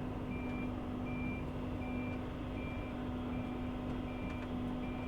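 Excavator travel alarm beeping at an even pace, about one and a half beeps a second, over the steady drone of the machine's diesel engine as it tracks along.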